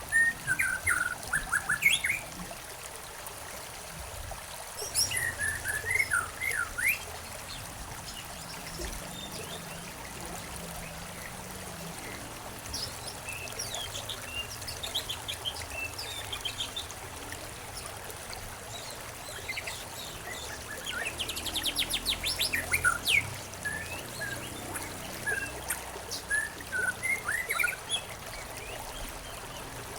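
Songbirds chirping and trilling in scattered bursts, with a fast trill about two-thirds of the way through, over a steady background of trickling water.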